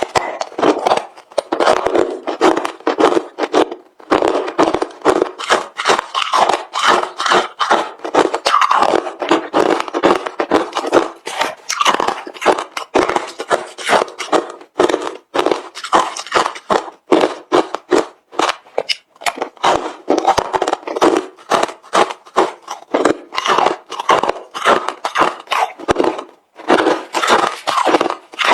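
Close-miked crunching of hard refrozen crushed ice being bitten and chewed. It is a steady, dense run of sharp, loud crunches, several a second.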